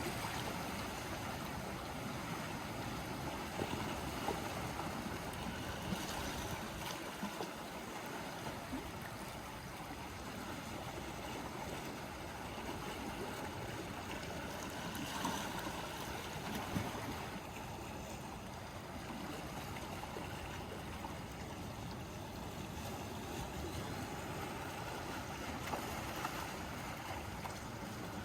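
Small sea waves washing and lapping at the shore: a steady wash of water broken by small irregular splashes.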